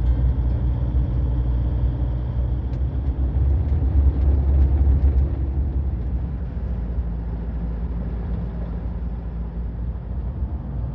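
Steady low rumble of a vehicle running, heard from inside the cabin, swelling a little about four seconds in and then easing.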